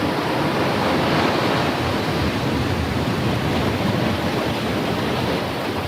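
Ocean surf breaking: a steady, dense wash of waves that swells a little about a second in and eases slightly near the end.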